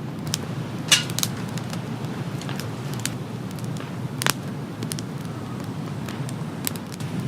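Steady rain with scattered, irregular sharp taps of heavier drops, the loudest about a second in and just past four seconds.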